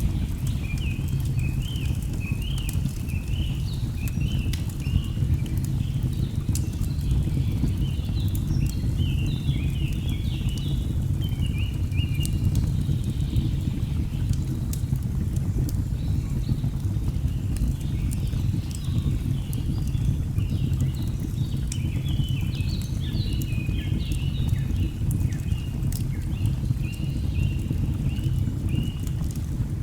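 Layered nature ambience: a steady low rush of falling water under birds chirping in quick repeated phrases, which thin out for a while around the middle. Sharp crackles of burning logs pop now and then.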